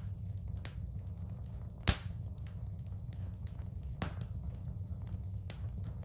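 Wood fire crackling in a fireplace: many small crackles over a steady low rumble, with two loud sharp pops about two and four seconds in and a smaller one near the end.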